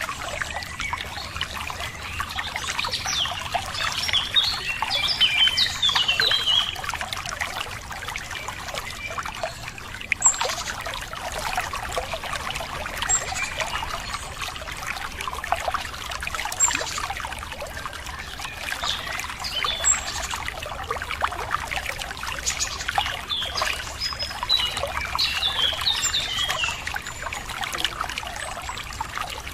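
Running water trickling and splashing steadily, like a small stream, with birds chirping: a flurry of chirps a few seconds in and again near the end, and short high single calls now and then in between.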